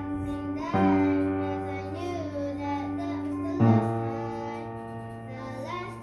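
Singing over piano accompaniment: a voice holding long, wavering notes above sustained chords, with new phrases starting about a second in and again past the halfway mark.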